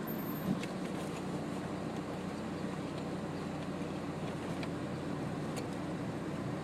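Steady engine and road noise inside a moving car's cabin, with a few faint clicks.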